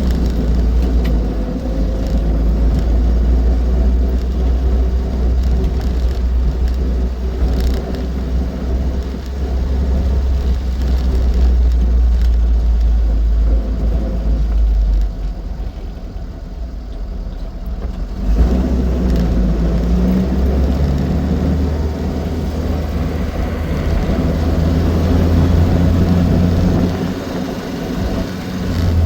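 Austin 7 Ruby's small four-cylinder side-valve engine running as the car is driven on the road, with a steady low rumble. About halfway through the engine note drops for a few seconds, then picks up again.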